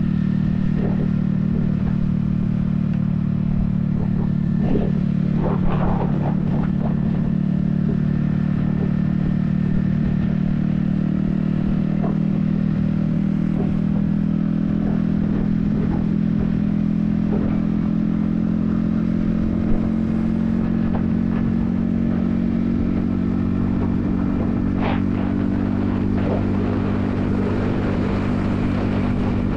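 Yamaha XSR155's 155cc single-cylinder engine running at a steady cruising speed, its pitch holding nearly constant. A few brief clicks stand out, one about six seconds in and one near the end.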